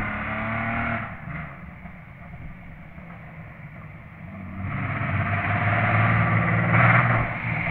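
Opel Omega A's 3.0 V6 engine under hard acceleration: its note dies away about a second in, then grows loud again from about five seconds in as the car approaches, loudest near seven seconds.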